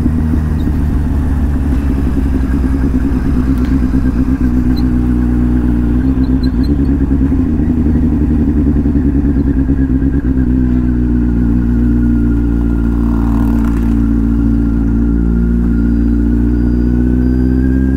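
Kawasaki Z800's inline-four engine running steadily at highway cruising speed, with wind rush on the microphone. The engine pitch eases slightly and then climbs again near the end.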